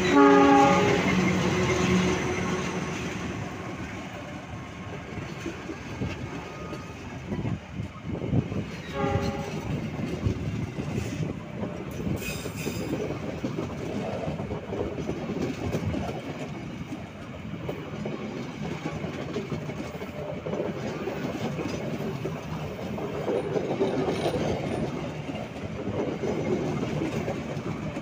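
Diesel locomotive horn sounding loudly as the locomotive passes close by, followed by passenger coaches rolling past with steady rail clatter and wheel noise. A second, brief horn note comes about nine seconds in.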